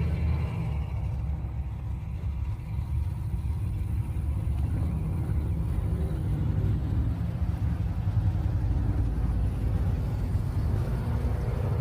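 Car engine running with a low, steady rumble.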